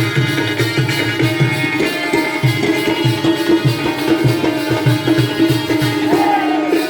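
Instrumental interlude of Jakhadi folk music: a hand drum beating a steady rhythm, about two to three strokes a second, under a sustained held note and melody from accompanying instruments.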